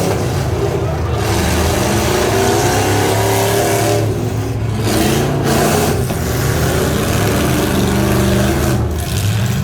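Half-ton pickup truck engine running hard and revving, its pitch rising and falling, with short drops in level about four seconds in and near the end.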